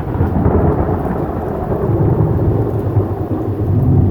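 Thunder from a nearby lightning strike: a deep rumble that breaks in suddenly and stays loud, swelling again near the end.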